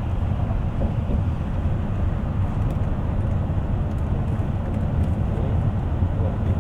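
Steady low drone of a moving bus heard from aboard: engine and road noise without letup.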